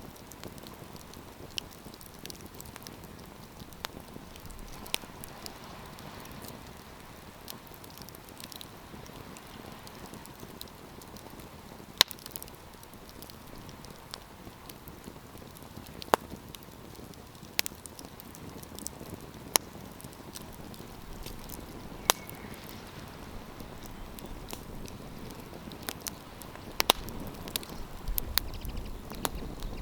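Wood campfire crackling: sharp, irregular pops and snaps a second or a few seconds apart over a soft, steady hiss of burning.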